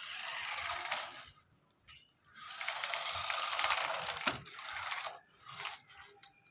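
Toy RC car driven in spurts, its small electric motor and plastic gears whirring and rattling. There are three spurts: a short one at the start, a longer one from about two and a half seconds to five, and a brief one near the end.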